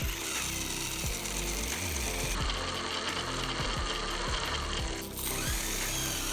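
Toy RC car's electric motor and gears running with a rattling mechanical buzz, over background music.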